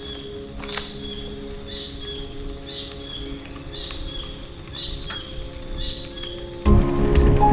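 A bird's short high chirp repeated about twice a second over quiet outdoor ambience. Near the end, loud music and rolling noise cut in abruptly.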